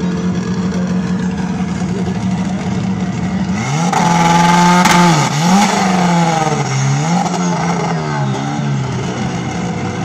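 Car engines revving at a drag-race start line: first held at a steady speed, then from about four seconds in blipped up and down again and again, loudest around four to five seconds in.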